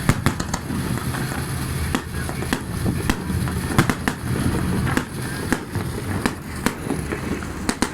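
Firecrackers going off in an irregular string of sharp pops, about fifteen over several seconds, over the steady drone of an engine running.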